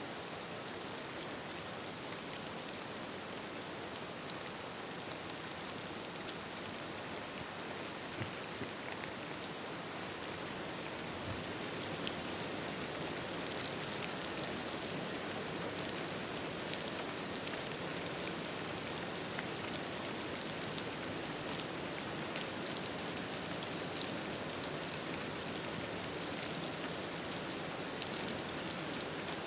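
Steady rain falling on a surface, an even hiss with scattered sharp ticks; it swells slightly about a third of the way in.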